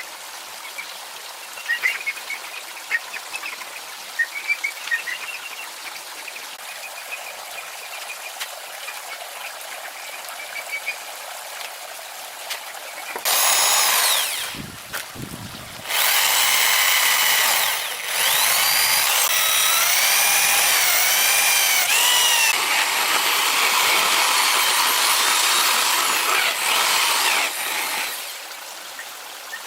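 A power tool whining, starting about halfway through with two short breaks, its pitch rising and falling as it runs, then stopping near the end. Before it, faint chirps over a steady outdoor hiss.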